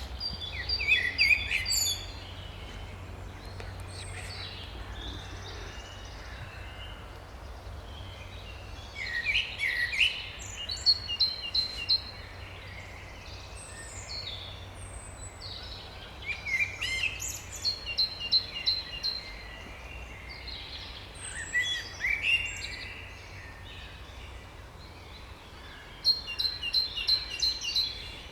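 A songbird singing short phrases, five in all, each a few falling notes followed by a quick run of repeated high notes. A steady low rumble runs underneath.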